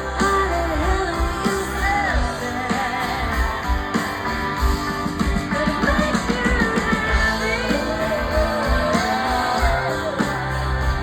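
A live rock band plays with guitars and drums under a singing voice, heard as a loud concert recording.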